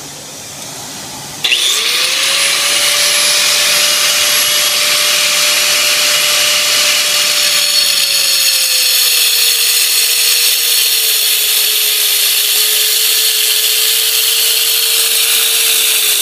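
Power saw starting up about a second in and cutting through travertine stone, a loud grinding run with a steady motor whine that drops a little in pitch partway through as the blade takes load. A dust-extraction vacuum hisses underneath before the saw starts.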